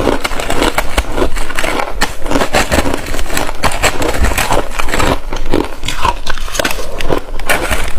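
Close-miked biting and chewing of frozen passion fruit ice, a rapid run of crisp crunches and cracks without a break.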